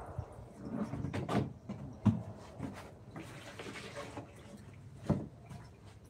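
Irregular knocks and handling noises. The sharpest knock comes about two seconds in and another near five seconds, with a brief hissy scraping or rustling between them.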